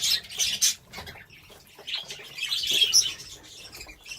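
Budgerigars chirping and chattering in irregular high bursts, loudest in the first second and again about two to three seconds in.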